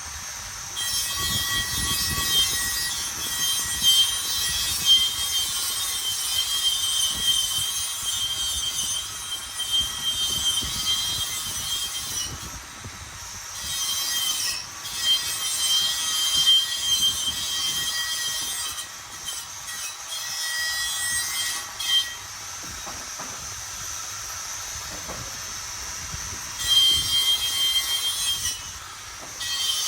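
A power tool cutting, with a steady high whine. It runs in three stretches of several seconds, stopping briefly twice.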